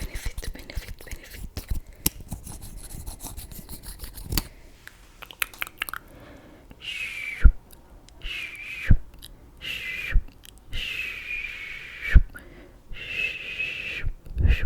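Makeup tools and packaging handled close to the microphone: a rapid run of clicks and taps, then a series of hissy strokes about a second long each, separated by sharp taps.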